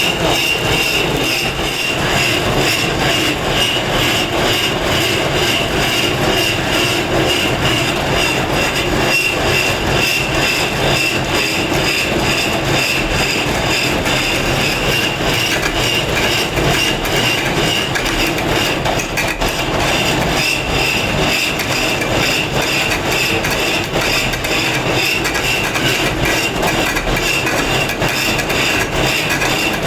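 A power tool, such as an electric grinder, working stone: a loud, steady high whine over a rough, continuous grinding noise.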